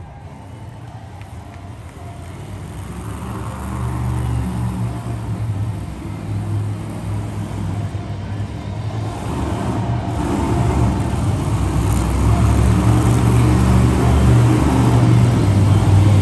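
Monster truck engine running with a low, throbbing note that grows steadily louder.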